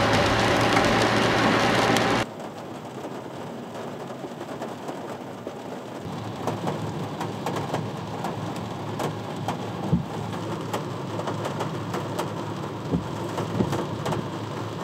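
Rain falling on a car, heard from inside: a steady hiss with scattered sharp drop ticks on the roof and glass. For about the first two seconds a louder car running noise with a steady low hum covers it, then cuts off abruptly.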